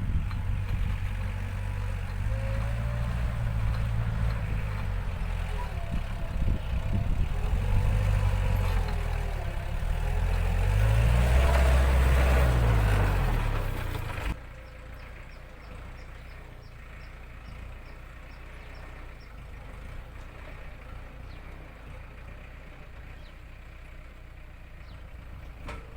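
ISEKI NT554 tractor's diesel engine working, its pitch rising and falling repeatedly as the throttle and load change. About halfway through the sound drops suddenly to a quieter, steadier engine note.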